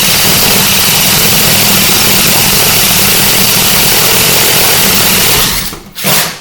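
An electric power tool running steadily at full speed with a low hum. It is switched off about five and a half seconds in, run again in a short burst, then stopped.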